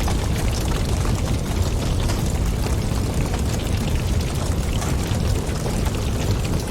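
Wood fire crackling, with many small pops and snaps over a steady low roar of flames and wind.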